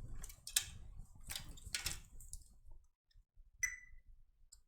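Multimeter test probes clicking against a circuit board while diodes are checked in diode-test mode, then one short, high beep from the meter about three and a half seconds in.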